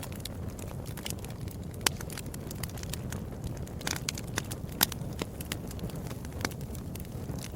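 Wood fire burning, with frequent sharp crackles and pops over a steady low rumble of flames. The loudest pops come about two seconds in and just before five seconds in.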